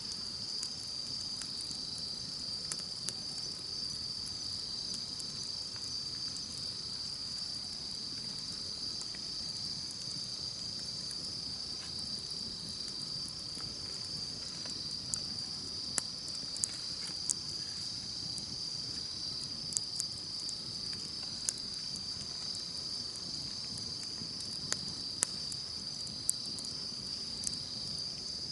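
A steady, high insect trill runs under a wood campfire crackling, with sharp pops scattered through and more frequent in the second half.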